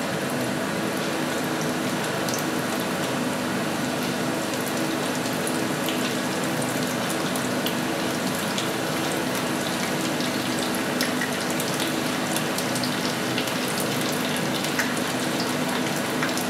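Diced pork fat and onion frying in a pan: a steady sizzle with scattered small crackles while raw potato slices are laid into the hot fat.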